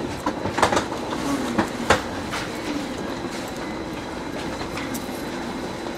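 Electric commuter train standing at a platform: several sharp clunks and clicks in the first two seconds, then a steady low hum from the train.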